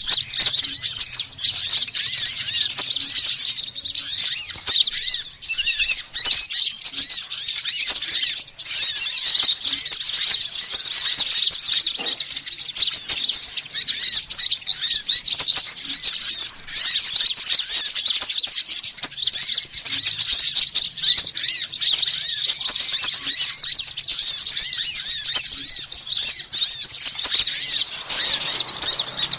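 Dense, unbroken chorus of many small birds chirping and twittering rapidly and high-pitched: a bird-luring (pikat) recording of small songbirds calling noisily, used to draw other small birds in to birdlime.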